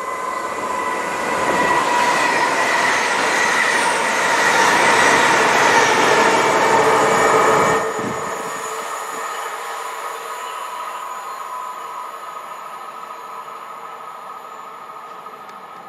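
Intercity Express passenger train passing along the line, a rumble of wheels on rail with a steady high whine over it. It builds for about eight seconds, drops suddenly, then fades away as the train recedes.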